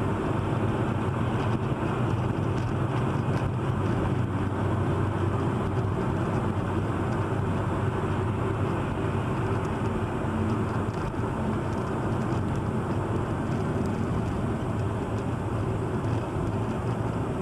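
Steady engine and road noise of a car driving, even in level with no impacts.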